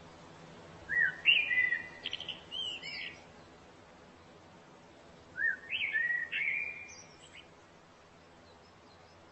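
A songbird singing two short phrases of quick rising and falling notes, the first about a second in and the second about five and a half seconds in.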